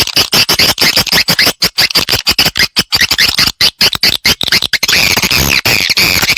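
Swiftlet lure call recording: a loud, dense chatter of rapid twittering chirps and clicks, many short chirps a second, played to attract swiftlets to nest.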